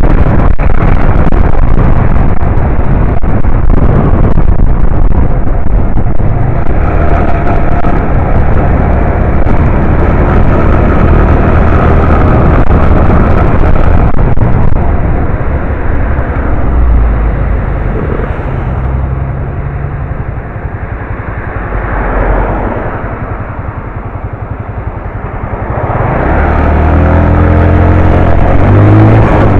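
A 125 cc motorbike being ridden, with its engine running under heavy wind rush on the microphone. The bike eases off and the sound drops from about halfway through, then near the end the engine revs up in rising pitch as it accelerates again.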